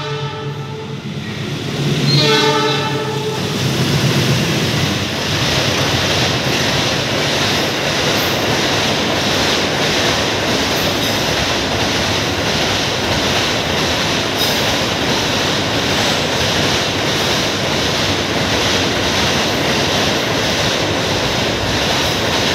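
Passenger train sounding its horn for about three seconds, then running alongside the platform with a steady, loud noise of wheels on rails and passing cars.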